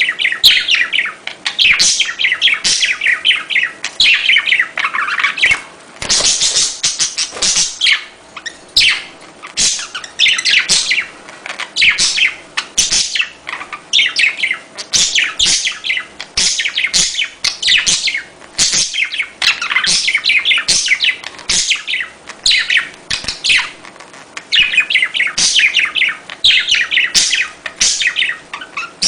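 Budgerigars chattering and chirping, with rapid high calls in quick clusters and only brief dips between them.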